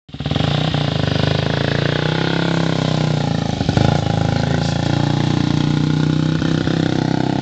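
Dirt bike engine running steadily at a low, even speed.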